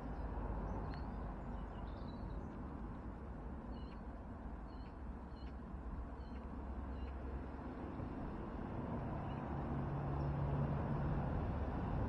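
A small garden bird calling: a run of short, high chirps, roughly one or two a second, for the first several seconds, with a couple of fainter ones later. Under it a steady low rumble, like distant traffic, that grows louder near the end.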